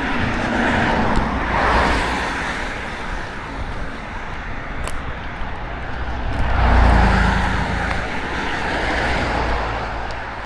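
Car on the move: steady road and engine noise with a low rumble, swelling louder about a second and a half in and again around seven seconds.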